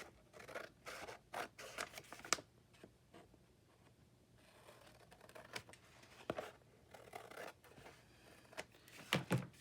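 Paper being handled and worked on a craft table: scattered rustles, scrapes and light taps, with a quieter stretch in the middle.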